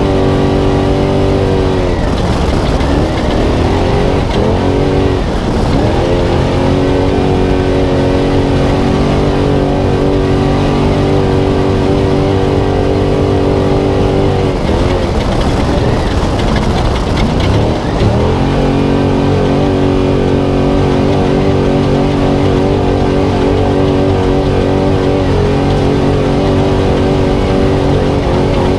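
Spec Trophy Truck's LS3 V8 engine heard onboard at race pace, holding high steady revs. The revs drop and climb back briefly about two and five seconds in, and for several seconds around the middle.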